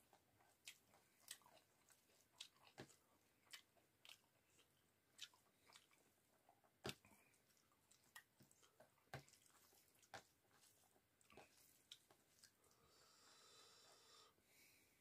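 Faint close-up chewing of rice and cauliflower-potato curry: irregular wet mouth clicks and smacks, one or two a second.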